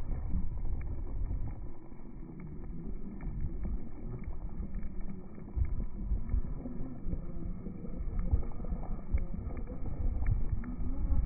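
Brushless electric motor of an Arrma Granite BLX 3S RC truck whining up and down in pitch as the truck drives through deep snow, with wind rumbling on the microphone.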